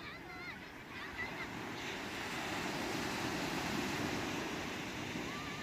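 Sea waves washing onto the shore, with one wave swelling louder from about two seconds in. Short wavering bird calls sound in the first second or so and again near the end.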